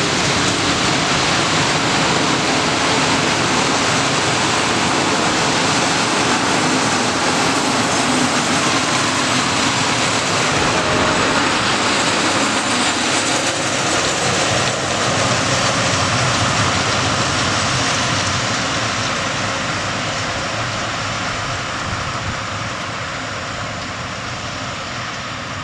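Freight train of open coal wagons rolling past, a steady noise of steel wheels running on the rails, fading gradually over the last several seconds as the end of the train moves away.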